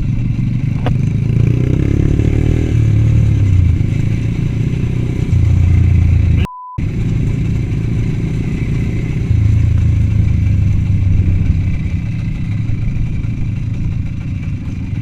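Small motorcycle engine running under way while riding, its low drone rising and easing with the throttle, with a brief dropout about halfway through.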